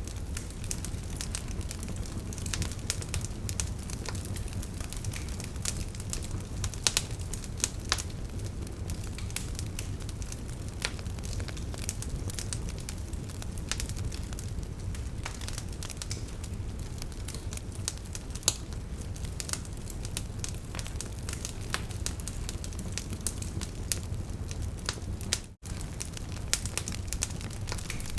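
Wood fire crackling: irregular sharp pops and snaps over a steady low rumble of burning, with a split-second cut-out of all sound near the end.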